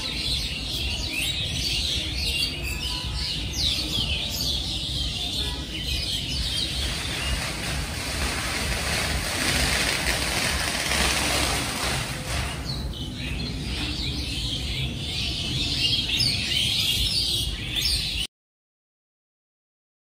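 Many small birds chirping in quick, short, falling calls over a steady low rumble. In the middle the chirping thins while a rushing noise swells, and about eighteen seconds in the sound cuts off abruptly to silence.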